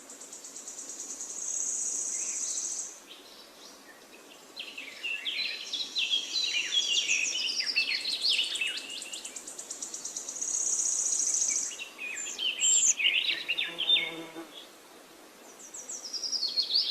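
Birdsong in a forest. A high, rapid trill lasts about three seconds, then comes a run of quick chirps, a second shorter high trill and more chirps.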